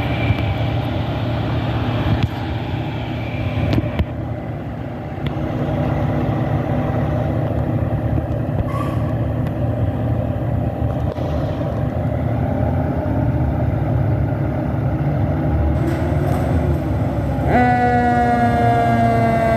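Fire engine's diesel engine running steadily with a deep rumble. About two seconds before the end, a loud warning tone from the apparatus (air horn or siren) starts abruptly and holds, falling slightly in pitch.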